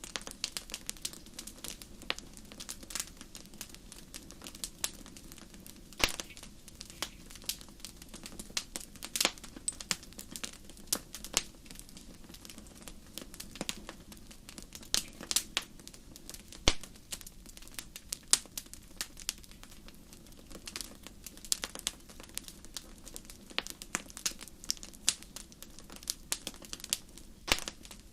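Wood fire in a fireplace crackling, with irregular sharp pops of varying loudness over a faint steady background.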